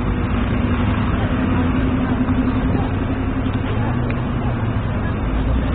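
Urban traffic noise: a vehicle engine running with a steady hum over a continuous rumble of road noise.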